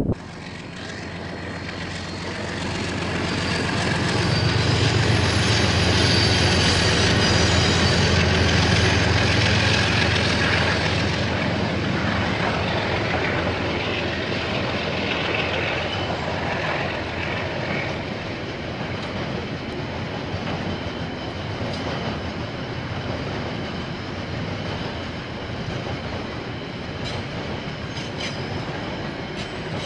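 KiwiRail diesel train passing. The locomotive's low engine hum builds to its loudest about five to ten seconds in and fades after about eleven seconds, leaving the steady rolling noise of wagons on the rails, with a few faint clicks near the end.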